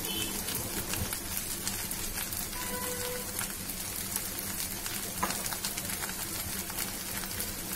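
Rice frying in a nonstick pan on the stove: a faint, steady sizzle, with a brief soft tone about three seconds in.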